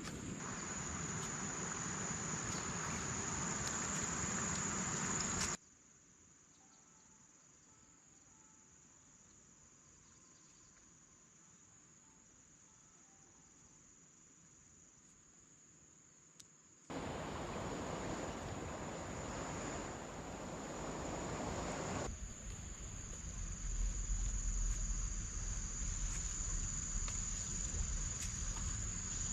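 Insects, likely crickets, chirring in a steady high-pitched drone. It cuts off abruptly about five seconds in, leaving a much quieter stretch, and comes back abruptly near the middle, with a low rumble joining near the end.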